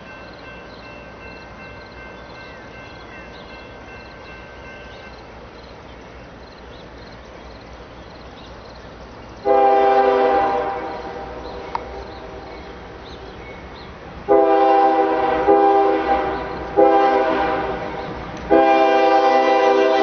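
Diesel locomotives of an approaching CSX intermodal train rumbling, with turbochargers audible, then the lead locomotive's multi-note air horn: one long blast about halfway in and a run of blasts near the end, sounded for the grade crossing.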